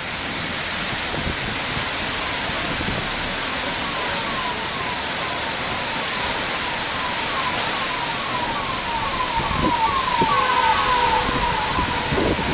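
Heavy rain and wind hissing steadily. A siren wails over it in quick falling sweeps, two or three a second, and grows louder toward the end.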